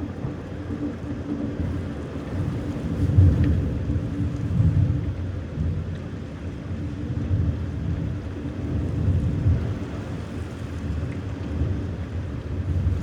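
Thunder rumbling low and rolling, swelling and fading in waves, over steady rain.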